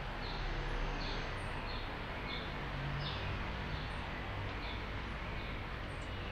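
Small bird chirping repeatedly, short high chirps about twice a second, over a steady low background rumble.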